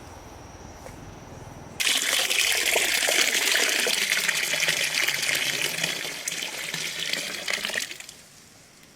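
Water pouring and splashing in a strong steady gush. It starts suddenly about two seconds in and tapers off after about six seconds.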